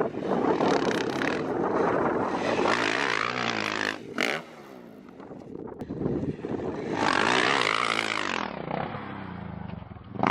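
Dirt bike engine revving hard with rising and falling pitch, dropping away suddenly about four seconds in, then revving up again and fading out near the end.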